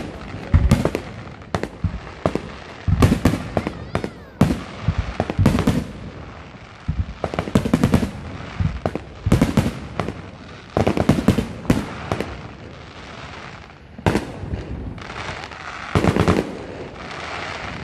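Fireworks display: aerial shells bursting overhead in repeated clusters of sharp bangs and crackles about every second, spacing out near the end.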